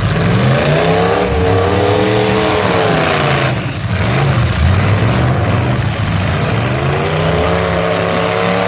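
Full-size pickup truck engines revving hard, the pitch climbing and dropping several times as they accelerate and back off.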